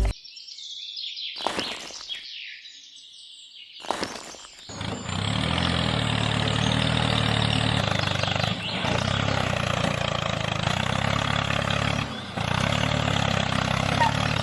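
A few knocks and sweeping noises, then a small motor starts about five seconds in and runs steadily with an even hum, briefly dipping twice.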